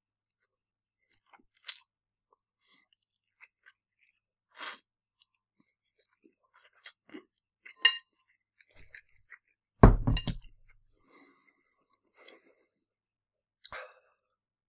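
A person chewing a mouthful of noodles eaten with chopsticks: scattered soft mouth smacks and clicks, with one louder thump about ten seconds in.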